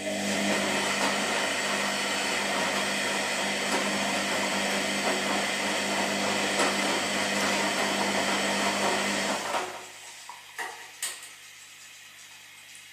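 Washing machine running: a steady motor hum over a loud rushing noise that starts abruptly and cuts off after about nine and a half seconds, followed by a few light clicks.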